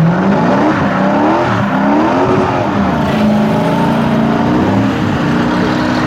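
Car engine revving, its pitch climbing, dipping and climbing again over the first few seconds, then holding a steadier note.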